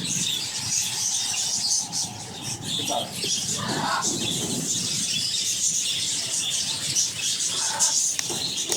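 A flock of small aviary birds chattering and chirping continuously, many high calls overlapping.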